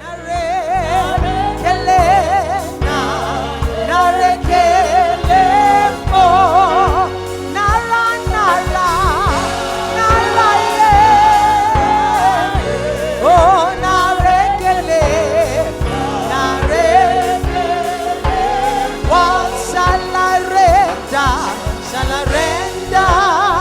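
Gospel song: a voice singing a wavering, ornamented melody over a band with bass and a steady beat.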